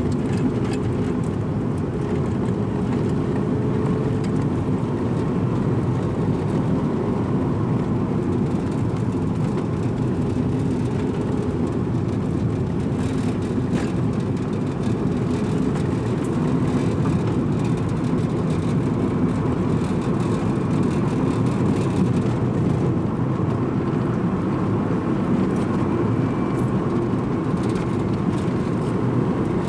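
Strong wind buffeting the microphone: a loud, steady low noise with no let-up.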